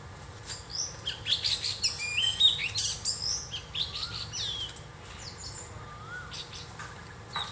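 Birds chirping: a busy run of quick, high, sweeping chirps for the first few seconds, then fewer, softer whistles.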